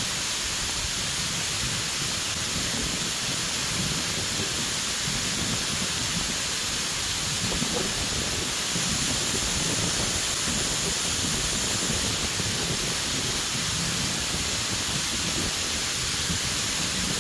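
Waterfall's rushing water: a steady, even roar of falling water that does not change.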